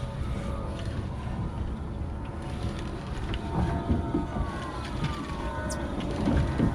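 Boat engine running low under steady wind and water noise, with a faint tone that slides down in pitch about four seconds in.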